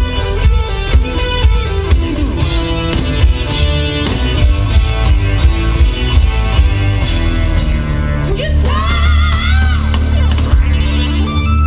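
Live rock band playing loudly, with heavy bass and drums throughout. About eight seconds in, a voice sings a phrase of gliding notes.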